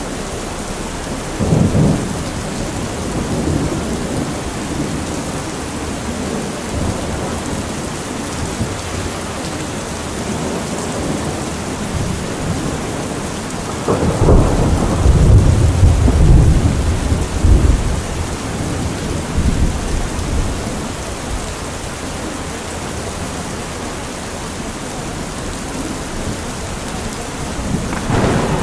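Steady rain with thunder rumbling; a short low rumble comes about a second and a half in, and a long, loud roll of thunder builds about halfway through and dies away over several seconds.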